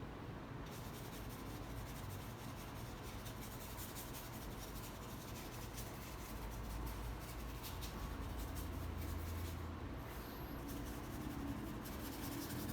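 Paintbrush working on canvas: a run of faint, dry scratching strokes, over a steady low hum.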